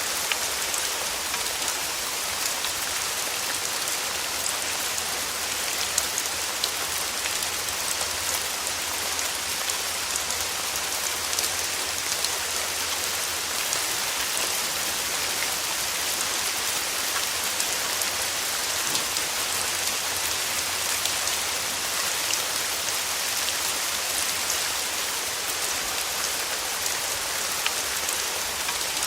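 Steady rain falling on a surface, a dense even hiss with many small sharp drop ticks through it.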